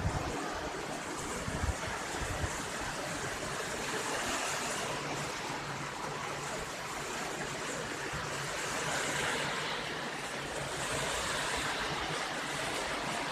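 Steady hiss of heavy rain, with a few low bumps of wind on the microphone in the first two or three seconds.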